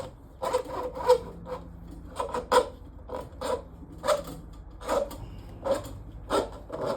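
Hand tool scraping at a grease-clogged kitchen sink drain pipe in repeated rasping strokes, roughly one every half second.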